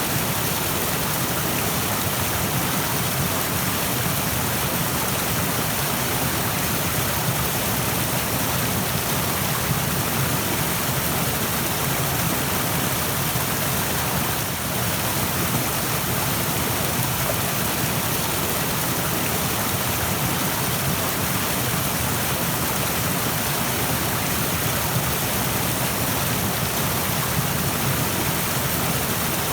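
Rushing stream water flowing in a steady, unbroken rush.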